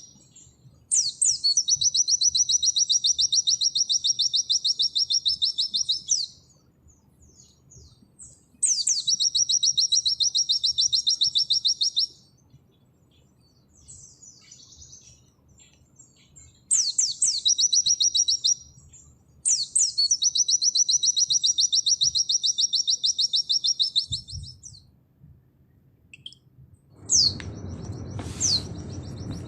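White-eye (pleci) singing its fast 'nembak' song: four long bouts of rapid, evenly repeated high notes, each opening with a sharp down-slurred whistle, with pauses between bouts. Near the end a low steady hiss comes in under two more down-slurred whistles.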